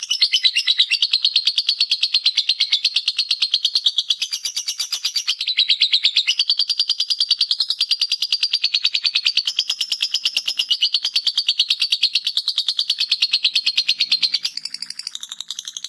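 Lovebird singing its 'ngekek' song: a long, unbroken chatter of rapid, high chirps.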